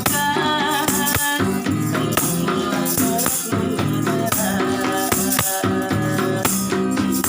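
Street busker's acoustic music: a shaker keeps a steady rhythm over a strummed guitar, with a singing voice carrying the melody.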